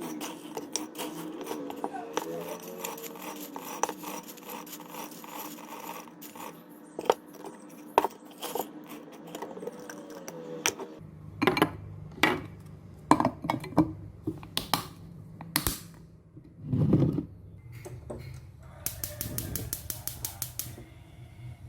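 Small objects being handled, with a series of sharp clinks and knocks, a duller thump, and then a quick run of clicks near the end.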